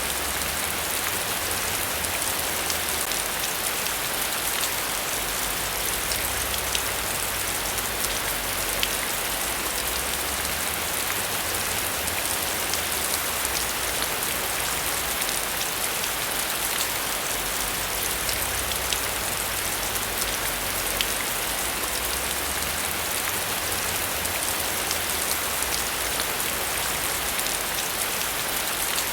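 Steady heavy rain falling: a dense, even hiss with many small drop ticks throughout.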